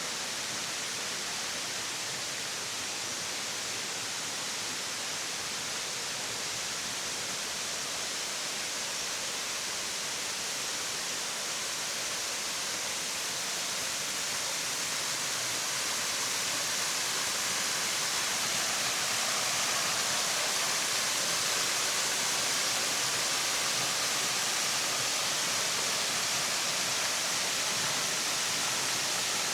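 Kurşunlu Waterfall: a steady hiss of cascading water that grows gradually louder about halfway through.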